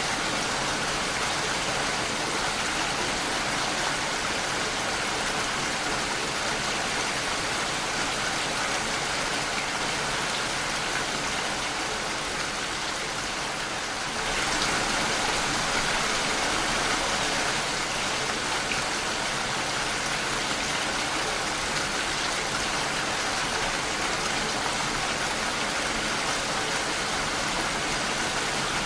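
Steady rain falling against a window, a continuous even hiss; it eases slightly and then steps back up about halfway through.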